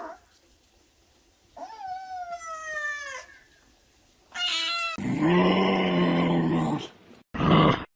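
A series of animal calls. A long call falls in pitch about a second and a half in, a short high call comes near the middle, then a louder, lower, rougher call lasts about two seconds, with a brief call near the end.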